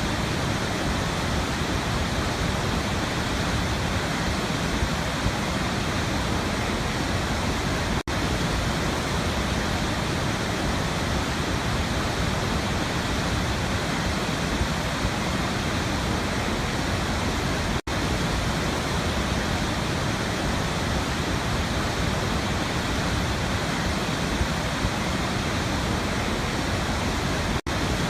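Waterfall: a steady, even rush of falling water, broken by three momentary dropouts about ten seconds apart.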